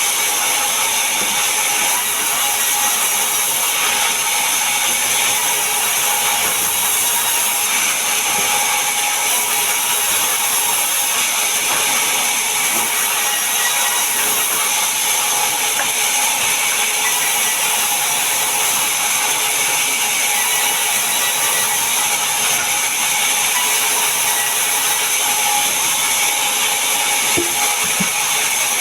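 Power saw cutting through mahogany wood, running steadily with an even, high-pitched whine and no pauses.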